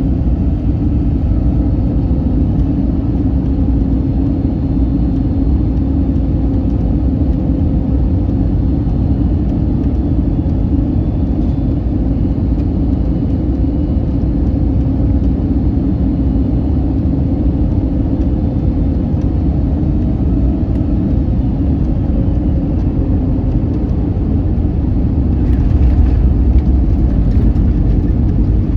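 Steady cabin noise inside an Airbus A321neoLR: a low rumble of engines and airflow with a faint steady hum, growing a little louder near the end.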